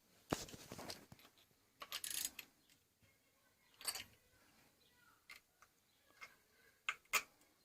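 Workshop handling sounds while working on a Honda XL125S: a handful of separate clicks, knocks and short scrapes of tools and parts, spread out with quiet gaps between them.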